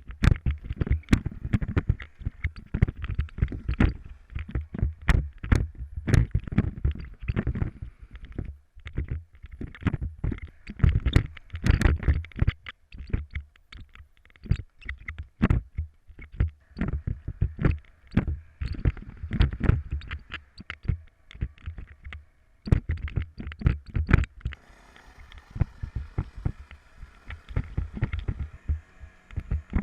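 Motorcycle ride captured by an on-board camera: uneven rumbling gusts of wind on the microphone, broken by frequent sharp knocks and rattles from the jolting ride.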